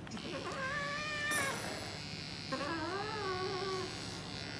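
A cat being shaved gives two long, drawn-out yowls, the second rising then falling in pitch, over the steady buzz of an electric hair clipper.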